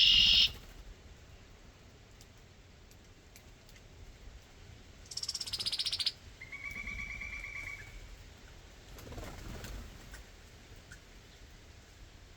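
Backyard birds calling: a loud, high call right at the start, a harsh buzzy call about five seconds in, then a quick pulsed trill on one pitch. A softer, lower call follows near the end.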